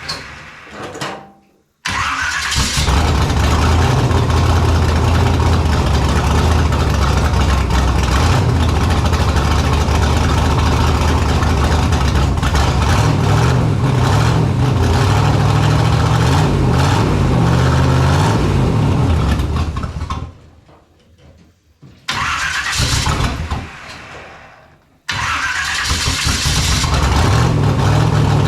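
Rat rod's engine on Stromberg carburettors being started after a carb clean-out: it catches about two seconds in and runs steadily, dies about twenty seconds in, is cranked again and fires up near the end. It is being run to check whether the rear carb still floods.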